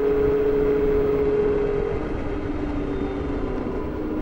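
Super Soco TC Wanderer electric motorcycle under way: a steady electric-motor whine in two notes over wind and road noise, the higher note fading about halfway through.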